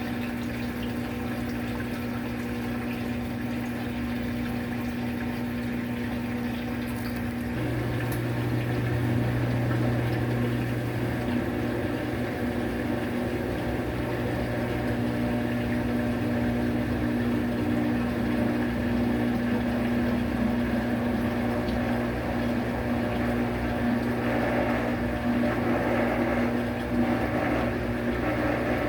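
Washing machine running with a steady motor hum and water noise. About eight seconds in it turns louder and rougher, with a stronger low hum that settles after a few seconds.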